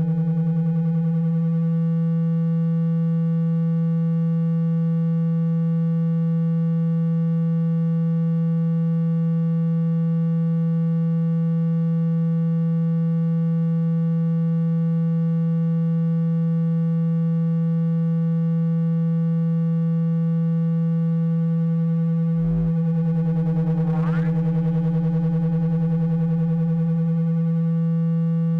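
Steady low electronic buzzing tone with faint overtones, played through a phone speaker to shake water out of it. There is a short break with a thump about 22 seconds in, and a quick rising sweep follows about two seconds later.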